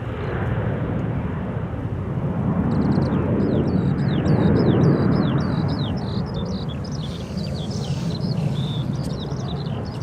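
Aircraft engine noise swelling as a plane passes, loudest about halfway through and easing off near the end. A small bird sings a rapid run of chirps over it from a few seconds in.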